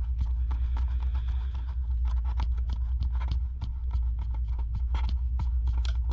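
Rapid, irregular light clicks and ticks of a small stubby screwdriver working tiny screws back into an iPad Pro's internal plate, over a steady low hum.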